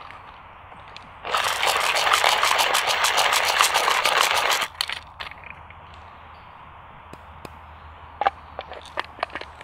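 Coffee grinder crunching through beans for about three and a half seconds, a dense crackle that stops abruptly, followed by scattered light clicks and taps.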